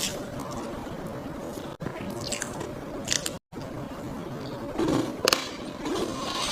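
Close-miked eating of a chocolate and vanilla lava cream cake: bites and chewing with crisp crunches and wet, squishy mouth sounds. The sound cuts out briefly twice, where clips are joined.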